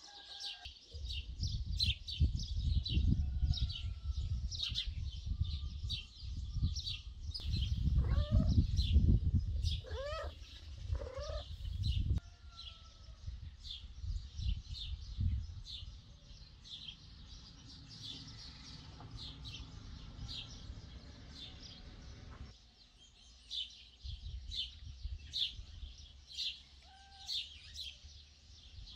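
Small birds chirping continuously, many quick high chirps several times a second with a few lower whistled calls among them. A low rumble on the microphone runs under the birds for the first twelve seconds or so and again near the end.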